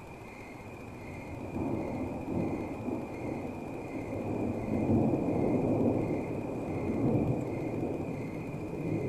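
Rolling thunder from a nearby storm: a low rumble that builds about a second and a half in, is loudest around the middle, and keeps rolling to the end.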